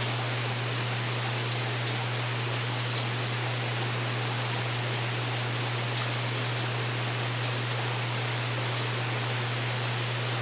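Steady rain pattering on a porch roof, an even hiss with a few faint ticks of drops. A steady low hum runs underneath.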